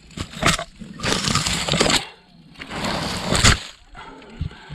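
Dry leaf litter and twigs crunching and cracking in three bursts of about a second each.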